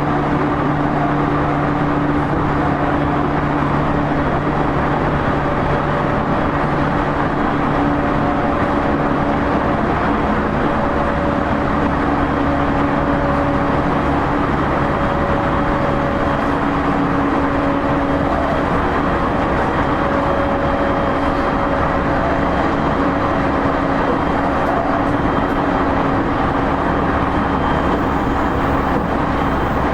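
Loud interior running sound of a JR East E231 series 0 electric commuter train, heard from a motor car at line speed: a steady rumble of wheels on rail with constant humming tones.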